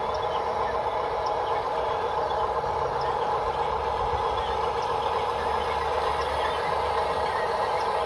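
Radio-controlled model construction machine running steadily, a continuous engine-like hum that does not rise or fall.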